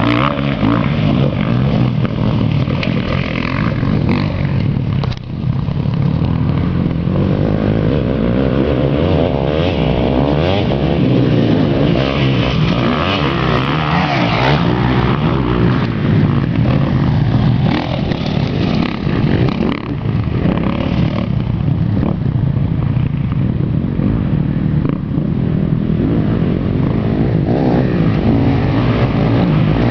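KTM 250 SX-F motocross bike's single-cylinder four-stroke engine, run hard on a dirt track and revving up and down continuously as the rider works the throttle and gears. There is a brief drop in the engine note about five seconds in.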